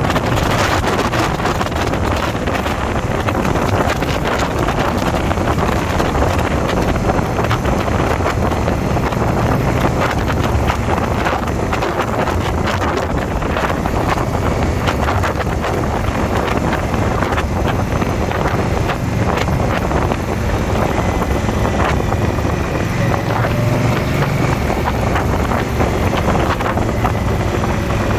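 Motorcycle running at steady road speed, its engine rumble buried under heavy wind rush on the microphone.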